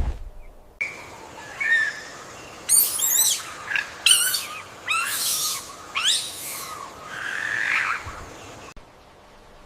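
Bird calls: a string of high-pitched chirps and quick up-and-down screechy calls lasting about eight seconds, cutting off abruptly near the end.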